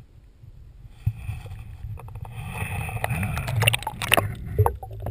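Water splashing and sloshing around a kayak as the paddle works, swelling in the middle, with a few sharp knocks against the hull.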